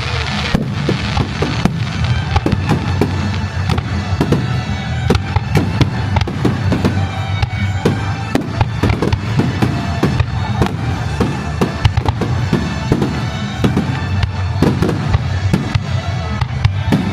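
Aerial fireworks by Kagiya bursting and crackling in rapid, overlapping succession, with music playing underneath.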